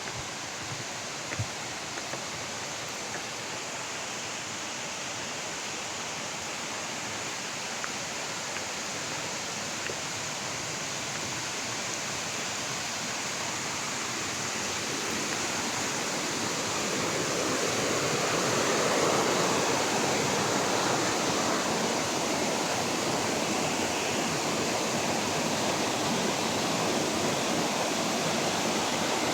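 Waterfall: falling water making a steady rushing noise, which grows louder a little over halfway through and then holds.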